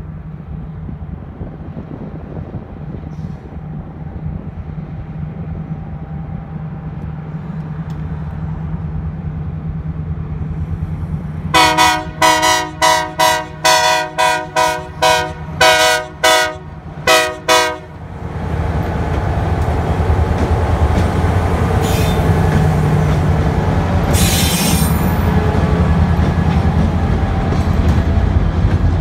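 Freight train approaching: the diesel locomotives' engines drone low and steadily, growing louder. About twelve seconds in, the locomotive horn sounds about ten short blasts over six seconds. Then the locomotives pass and the freight cars roll by loudly with wheels clacking and a brief high squeal.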